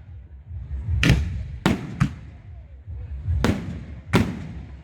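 Display fireworks going off: five sharp bangs at uneven intervals over a steady low rumble.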